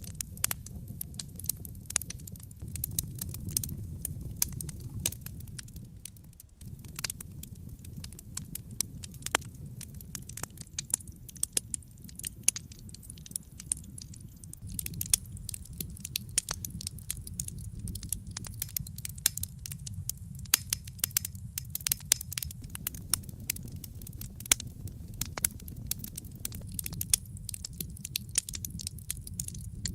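Wood fire burning in a fireplace: steady irregular crackling with frequent sharp pops over a low rumble of the flames.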